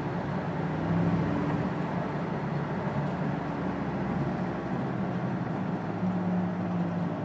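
Low hum from a 1999 Ford Crown Victoria at expressway speed, heard inside the cabin over road noise. It wavers in pitch and swells about a second in and again near the end. It comes on only above about 40 mph and gets a little louder off the gas; its cause is not yet known.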